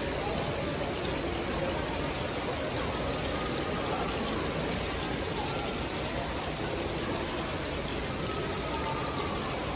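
Steady rush of falling water with faint, distant voices.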